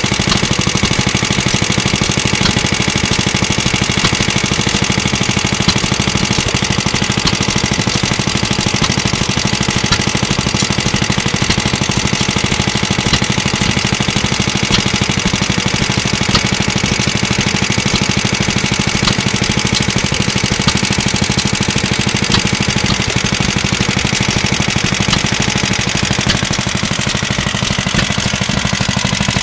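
Circa-1955 Clinton Model A-800 2.5 hp air-cooled engine running steadily at an even speed while driving a small air compressor.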